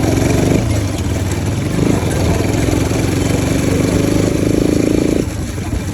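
Bajaj Pulsar RS 200's single-cylinder engine, running with its air filter removed, revved twice: a held rev that drops off about half a second in, then another from about two seconds in that falls back to idle just after five seconds.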